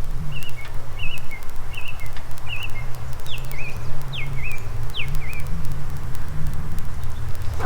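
A bird calling a run of about eight short chirps in the first five seconds or so, the later ones sharp downward sweeps, over a steady low rumble.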